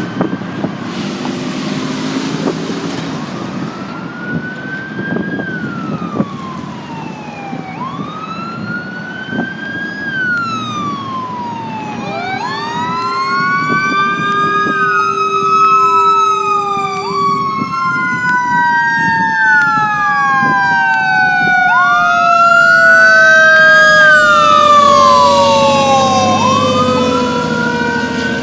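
Fire truck siren on wail, rising and falling every two to three seconds. About twelve seconds in, a second, deeper siren winds up and then slowly winds down, over the rumble of the truck's engine, which grows louder near the end as it passes.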